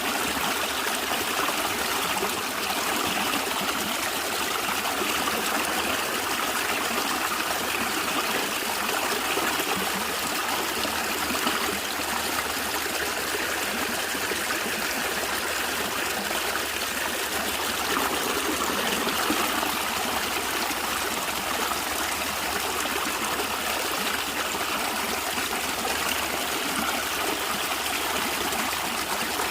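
Stream water trickling and gurgling steadily over stones, an even rush of running water.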